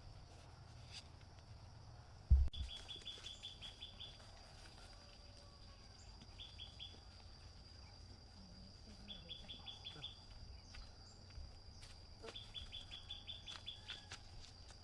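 A bird gives short rapid chirping trills four times over a steady high-pitched whine. A single low thump a little over two seconds in is the loudest sound.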